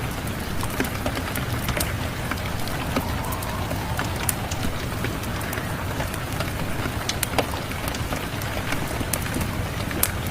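Steady rain mixed with a crackling wood fire: an even hiss of rain with scattered sharp pops and clicks from the burning logs.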